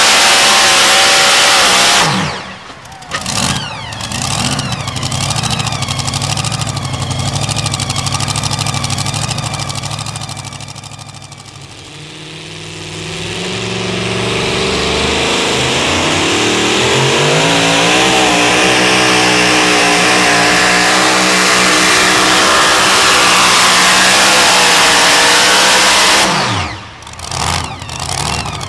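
Super modified two-wheel-drive pulling truck engines run hard. The engine sound drops away about two seconds in and runs lower, fading until about 12 s. Then an engine revs up with rising pitch, holds steady at full throttle, and cuts off sharply near the end.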